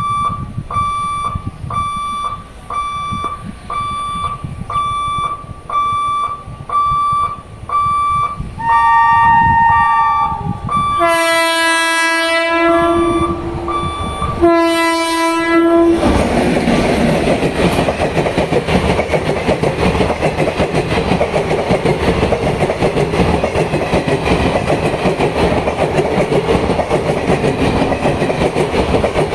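Level-crossing warning beeper pulsing about twice a second, then a WAP-4 electric locomotive's horn sounding three times, the last two long and loud. From about sixteen seconds in, the express train passes at high speed with a loud rushing rumble and wheels clattering over the rail joints.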